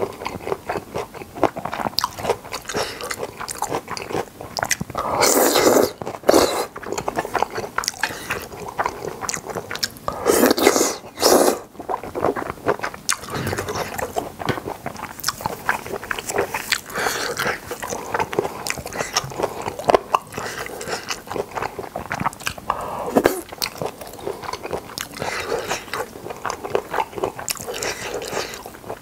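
Close-miked chewing and biting of boneless chicken feet and Chinese glass noodles: a steady run of wet, crunchy mouth clicks, with a few louder rushes about a second long around five and ten seconds in.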